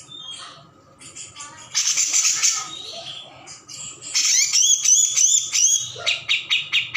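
Cucak jenggot (grey-cheeked bulbul) singing: a buzzy chattering phrase, then a quick series of looping, up-slurred whistled notes, then rapid repeated chips.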